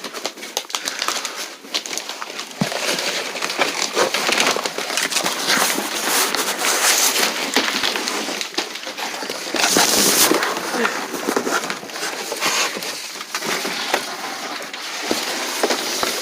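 Close rustling and crackling full of small clicks and knocks, from people shuffling about and handling things in a cramped shed.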